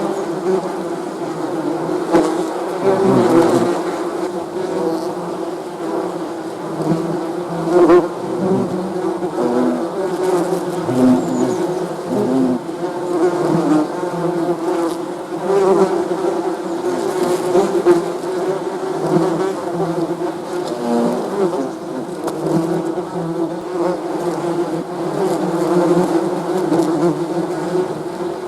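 Many bees buzzing together in a steady, dense hum, with single bees now and then passing close and briefly standing out above it.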